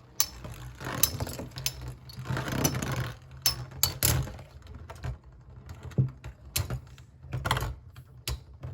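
Metal Fusion Beyblades clashing and clattering in a plastic stadium: an irregular run of sharp metallic clicks and rattles.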